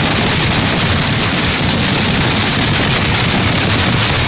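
Fireworks finale barrage: many shells bursting at once, merging into a loud, unbroken wash of bangs and crackle with no gaps between bursts.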